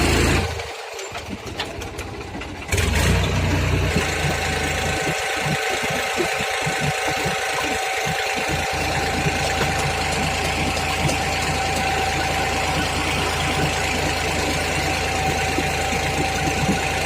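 Tractor engine running unevenly, then picking up about three seconds in and settling into steady running with a constant whine over a low rumble.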